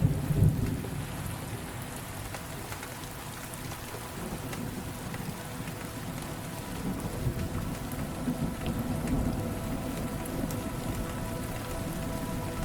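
Steady rain with rolling thunder: a loud rumble at the start dies away within about a second, and softer rumbles return about seven seconds in. Faint held tones enter about halfway through under the rain.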